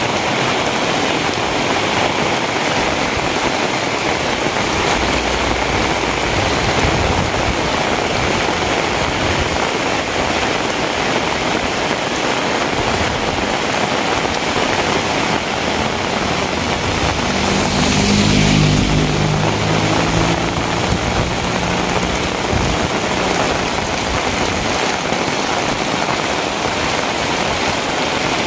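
Steady hiss of heavy rain, with a vehicle engine passing by about two thirds of the way through, its hum briefly rising over the rain and fading.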